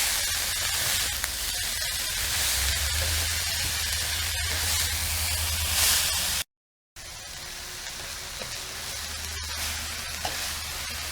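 Pork and vegetable egg roll filling sizzling as it fries in a pan, with a low steady hum underneath. The sound drops out completely for half a second about two thirds of the way through, then carries on a little quieter.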